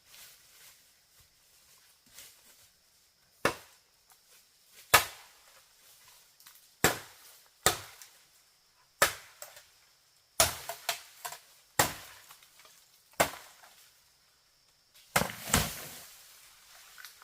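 Chopping: about a dozen sharp strikes at irregular intervals, some in quick pairs and threes, with quiet gaps between.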